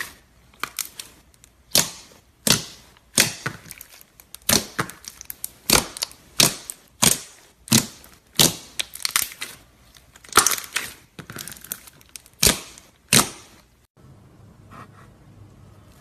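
Crunchy slime being squeezed and pressed by hand, giving a run of sharp crackling pops a few times a second. About two seconds before the end this changes abruptly to a softer, hissing squish.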